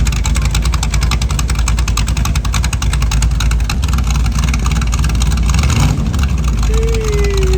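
Loud car engine idling close by, its exhaust pulsing rapidly and evenly. Near the end a short tone slides downward.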